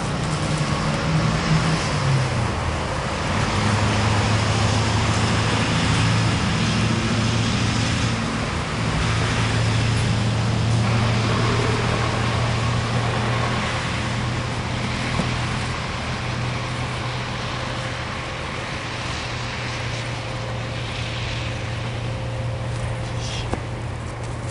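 A motor vehicle's engine running as a steady low rumble, louder through the first half and easing off somewhat later.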